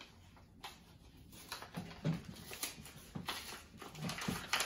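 Faint handling of cardboard packaging and paper inserts as a box is unpacked: scattered soft clicks and rustles, with a couple of brief low sounds about two seconds in and near the end.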